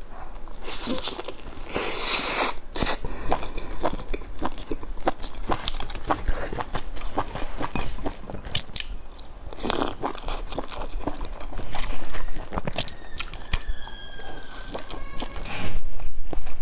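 Close-miked eating: biting into and chewing a soft steamed bun filled with glass noodles, with many quick wet mouth clicks and a few louder bites.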